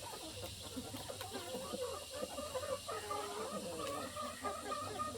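A flock of chickens clucking, many short overlapping calls at once.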